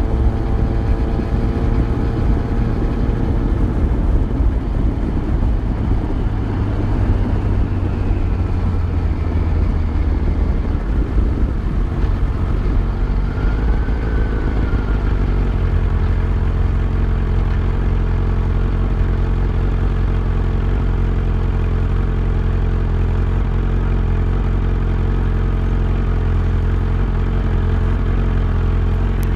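Yamaha FZ1's inline-four engine running under way. The engine note shifts during the first half, then settles into a steady drone from about halfway through.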